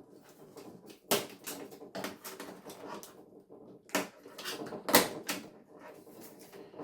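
Sharp clicks and light knocks of television parts and tools being handled during dismantling. Four louder knocks come about a second apart, with light clatter between them.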